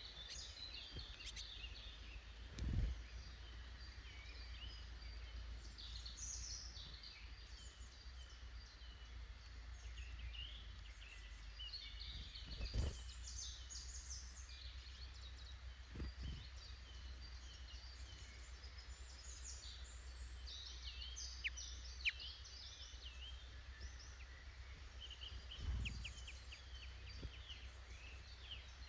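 Small woodland birds chirping and calling throughout, over a steady low rumble, with four dull thumps, the loudest at about 3 seconds and 13 seconds in.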